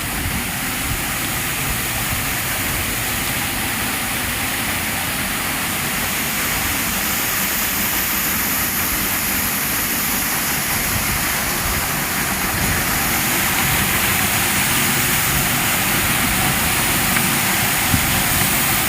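Steady rushing noise, even from low to very high pitches, with no clear tone or beat.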